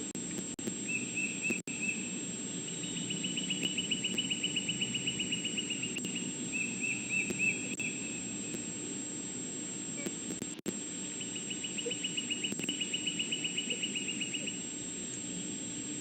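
Outdoor ambience over a steady low hum: a high, fast, evenly pulsed trill repeats in several runs, the longest lasting about three seconds, with shorter chirping runs between. The audio cuts out briefly twice.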